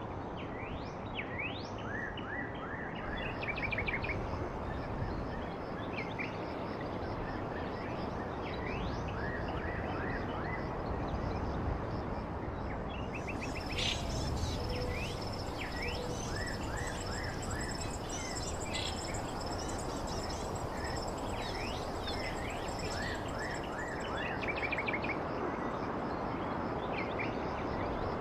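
Several birds chirping and calling in short repeated notes over a steady background hiss. A steady high-pitched tone joins about halfway through and drops out a few seconds before the end.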